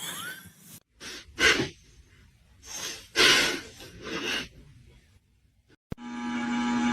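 A dog huffing and snorting in short breathy bursts, about four of them, after being told to get off the couch. Near the end a click is followed by a steady hum with a low, even tone.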